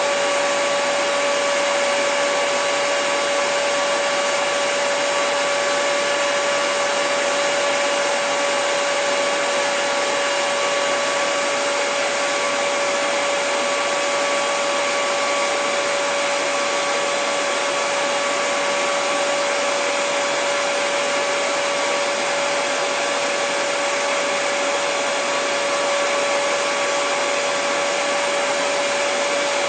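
Hair dryer running steadily: an even rush of blown air with a constant motor whine, unchanging in level or pitch.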